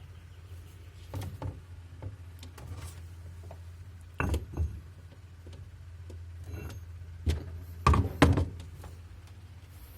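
Objects being set down on a 5 mm acrylic refrigerator shelf: a series of short knocks and thunks, several in quick pairs, the loudest pair near the end, over a steady low hum.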